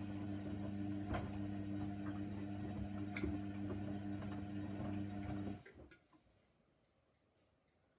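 Hoover Nextra 6 washing machine running with a steady hum and scattered light clicks; the hum cuts off suddenly about five and a half seconds in.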